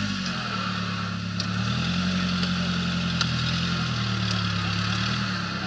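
Modified Suzuki Sidekick offroad vehicle's engine running at low, steady revs, easing off briefly near the start and again about a second and a half in. A few sharp clicks sound over it.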